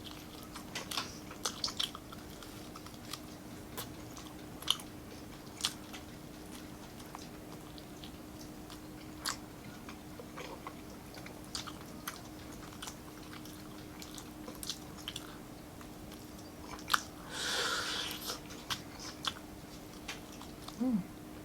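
Close-miked chewing and lip-smacking as a person eats grilled chicken and rice, with scattered sharp mouth clicks and a louder noisy burst lasting about a second, about three-quarters of the way through. A faint steady hum runs underneath.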